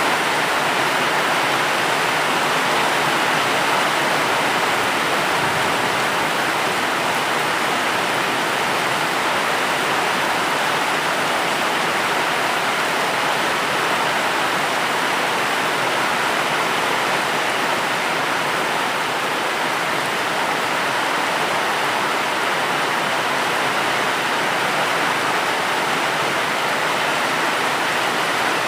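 Steady rain, an even hiss with no separate drops, thunder or changes in strength.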